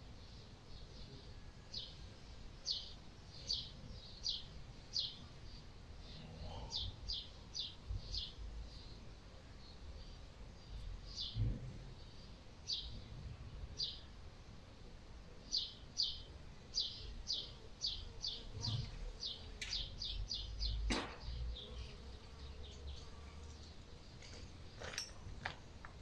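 A small bird chirping: short, high, falling chirps in quick runs of several a second, with pauses between runs, over a faint low rumble.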